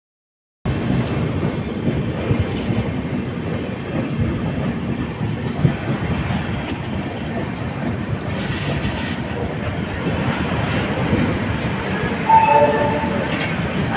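Indian Railways express train rolling in along the platform: a steady rumble with wheels clattering over rail joints. A brief pitched tone sounds near the end.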